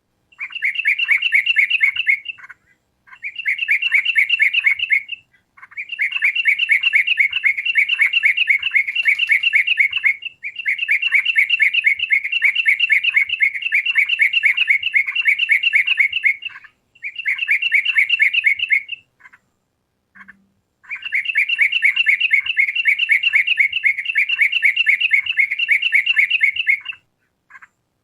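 Yellow-vented bulbul (trucukan) calling in loud bouts of rapid, repeated chattering notes. There are six runs of a few seconds each, separated by short pauses.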